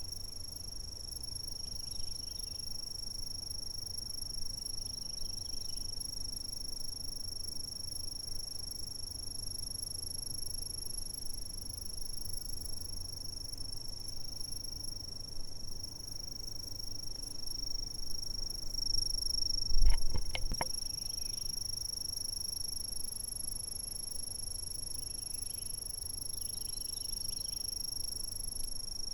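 Insects singing a steady, unbroken high-pitched trill, over a low background rumble. About twenty seconds in comes one brief low thump.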